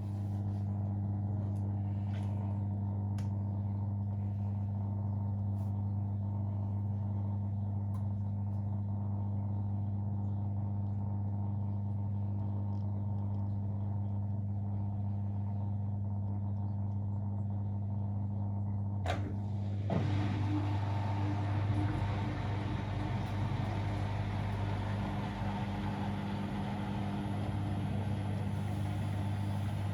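Siemens Extraklasse XLS 140 A washing machine, its drain pump running with a steady low hum. About two-thirds of the way in there is a click, then a rushing, rumbling noise of water and drum joins the hum.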